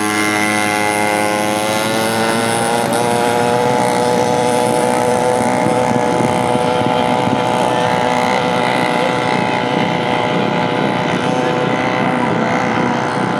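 Dirt bike engine running at full throttle, its pitch climbing over the first three seconds and then holding steady at high revs.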